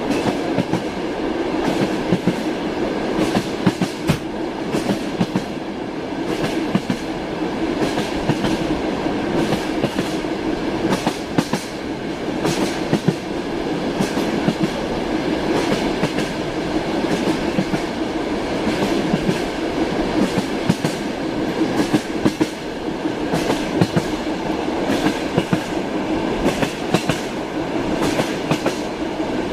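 Passenger train heard from inside a compartment: a steady running rumble, with the wheels clattering over rail joints in clicks that keep recurring throughout.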